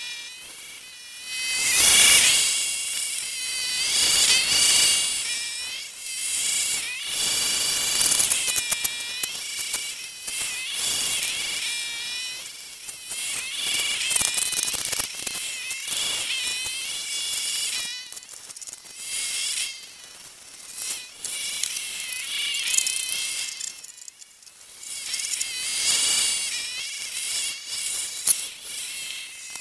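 Old MTD walk-behind snowblower running while it cuts through deep, drifted snow. The engine gives a high, wavering tone whose pitch and loudness rise and fall every few seconds as the load from the snow changes.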